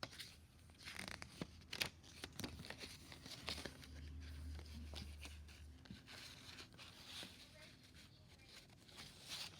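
CD booklet being taken out of its jewel case and handled one-handed: faint rustling of paper and scattered clicks of the plastic case.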